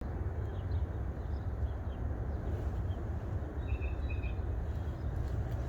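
Steady low outdoor rumble with a few faint high bird chirps about two-thirds of the way in.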